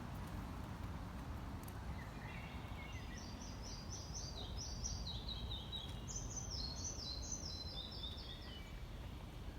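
Songbirds singing: a long run of quick, high chirping notes, many falling in little steps, starting about two seconds in and ending shortly before the end, over a steady low outdoor background noise.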